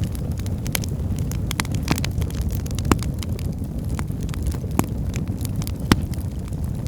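Firewood burning in a fireplace: a steady low rumble of flame under frequent crackles, with two sharper pops about three and six seconds in.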